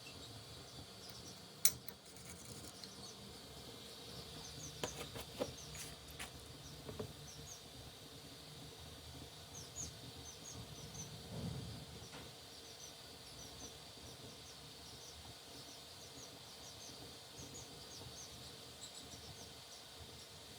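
Faint ambient sound: small birds chirping in short high notes over a steady high hiss and low hum. A few sharp clicks and knocks come in the first few seconds, and a brief low rumble comes around the middle.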